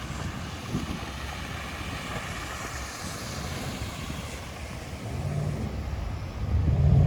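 A vehicle's engine running under a steady rushing hiss in snowy conditions, swelling into a louder, deeper rumble near the end.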